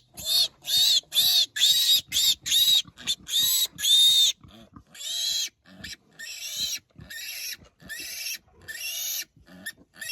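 Young piglet squealing over and over in distress while being held, about three shrill squeals a second, loud for the first four seconds and then quieter and more spaced.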